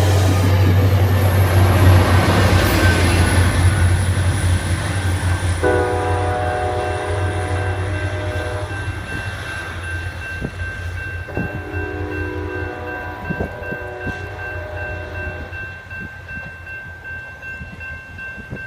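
ACE commuter train passing and moving away, its low rumble fading steadily, with a thin high whine over the first half. The train's horn sounds two long blasts, the first about six seconds in and the second about eleven seconds in.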